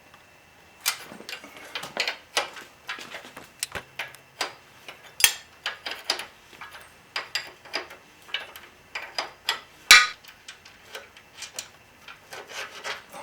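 Irregular metallic clicks and clanks of a hand wrench and Allen key working a motorcycle suspension-linkage bolt loose, with two louder clanks about five and ten seconds in.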